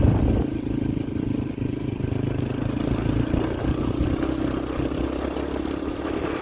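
Yamaha TT-R125LE dirt bike's single-cylinder four-stroke engine running under way. It drops in level about half a second in and then runs on steadily.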